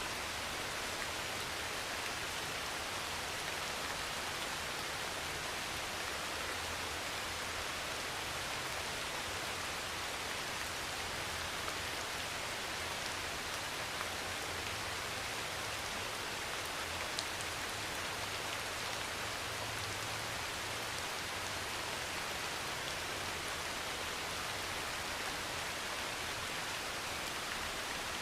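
Heavy rain pouring steadily on a metal roof, an even hiss with a single sharper drip-tap about two-thirds of the way through.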